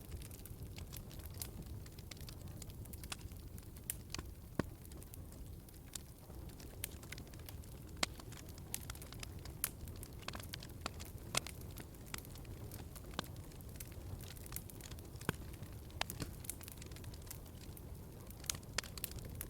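Wood fire crackling: irregular sharp pops and snaps, a few a second, over a low steady rumble of the burning logs.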